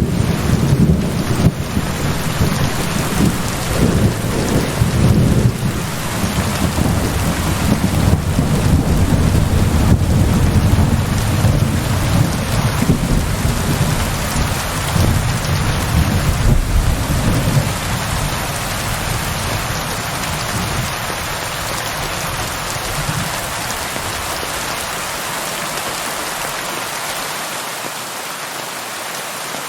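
Steady heavy rain with rolling thunder rumbling low underneath; the thunder fades away past the middle, leaving just the rain's hiss.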